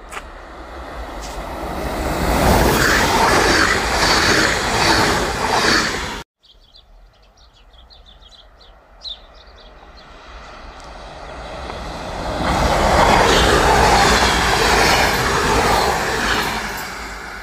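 Two passing trains: an electric train runs past and its noise is cut off abruptly about six seconds in. Then, after a quieter stretch, an ODEG Stadler KISS double-deck electric multiple unit approaches and rolls past close by, loudest in the second half before fading.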